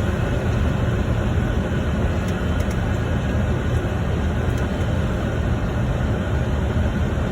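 Steady flight-deck noise of a Boeing 747-400 on short final: an even, deep rush of airflow and engine noise.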